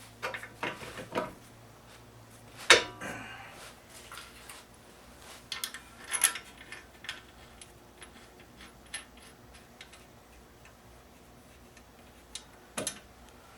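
Scattered light metallic clicks and clinks of hand tools and parts being handled during axle work, with a sharper clank about three seconds in and others near six and thirteen seconds.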